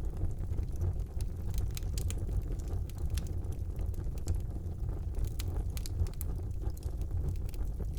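Wood fire burning in a fireplace: a steady low rumble of flames with many scattered small crackles and pops.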